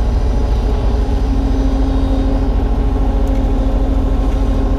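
Kubota U35-3 mini excavator's diesel engine running steadily while digging a trench, with a steady higher tone that comes in about a second in.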